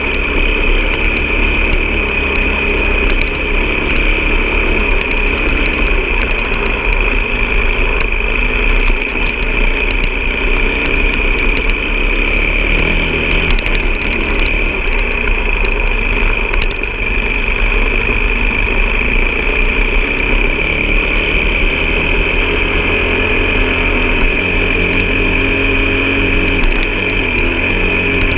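A vehicle engine running steadily under a constant high whine, with frequent short clicks and rattles throughout.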